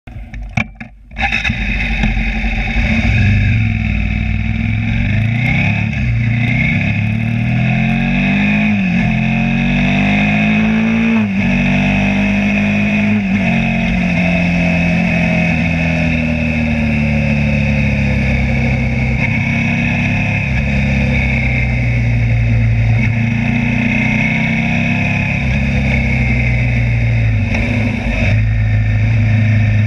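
Suzuki SV's V-twin motorcycle engine heard from onboard under way. The engine pitch rises and falls through several gear changes between about 8 and 14 seconds in, then holds steadier at cruising revs.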